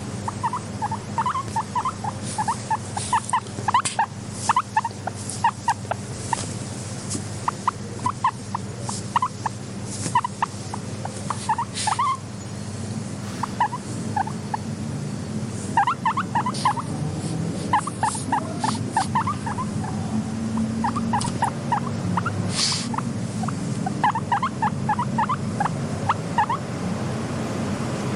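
Guinea pig squeaking in quick runs of short, high squeaks, with scattered sharp clicks and a steady low hum underneath.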